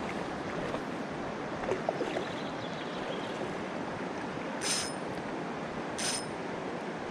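Steady rushing of a stream's flowing water. Two brief high-pitched sounds cut through it, about four and a half seconds in and again about a second and a half later.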